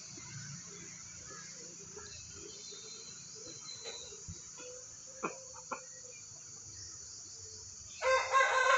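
Steady high chirring of crickets, with two sharp clicks a little past the middle. Near the end a much louder pitched call breaks in.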